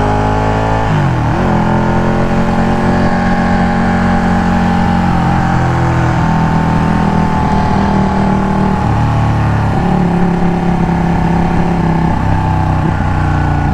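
Loud engine noise of a very noisy old car running alongside a motorcycle, the two engines mixed together. The engine pitch drops and climbs again about a second in, then holds fairly steady.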